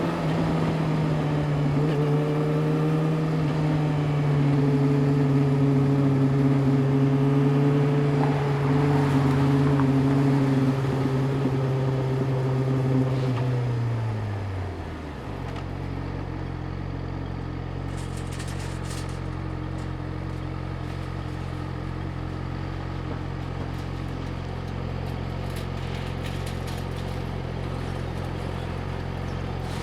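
Yamaha YZF-R6's inline-four engine running at steady moderate revs, then the revs fall away about halfway through and it settles into a steady idle.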